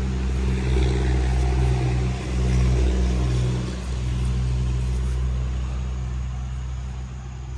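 An engine running with a steady low hum, fading away over the last couple of seconds.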